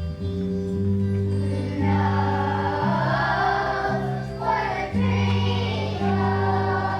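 Children's choir singing a song over instrumental accompaniment with a steady, stepping bass line; the voices come in about two seconds in.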